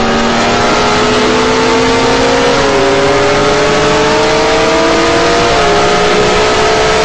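High-performance engine under hard acceleration, its pitch climbing slowly and steadily, with two upshifts where the pitch drops: one about two and a half seconds in, the other about five and a half seconds in.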